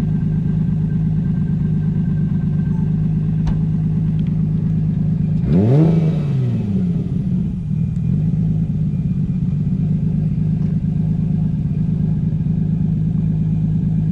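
Nissan S15 drift car's engine running steadily at idle, with one rev about five and a half seconds in that rises in pitch and falls back over about two seconds.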